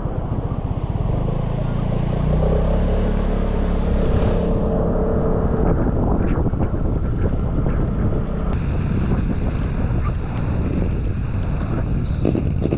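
Wind buffeting the microphone of a moving Vespa scooter, with the engine's drone underneath, coming through clearer for a couple of seconds about two seconds in.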